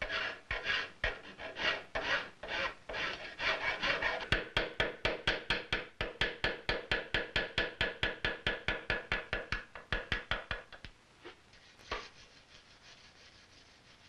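Hand file strokes in a steady rhythm, about two a second at first, then quicker at three to four a second. They stop about eleven seconds in, and one last stroke follows a second later.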